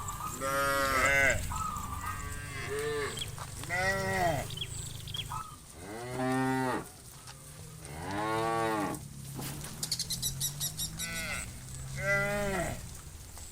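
Herd of cattle mooing, about eight calls one after another from several animals, some overlapping, each rising and then falling in pitch.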